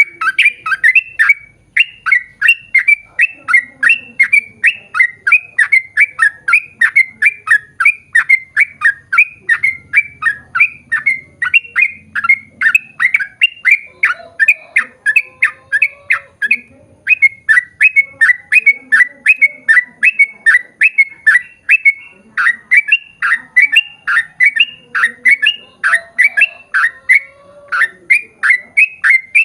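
Yellow-vented bulbul (trucukan) singing a long, rapid run of repeated chattering notes, about three a second, broken only by brief pauses about 2, 17 and 22 seconds in.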